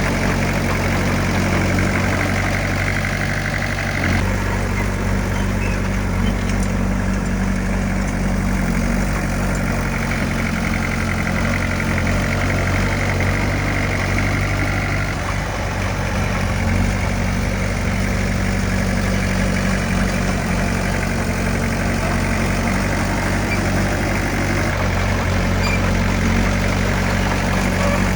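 Heavy diesel engine of earthmoving equipment running steadily, its note shifting slightly twice.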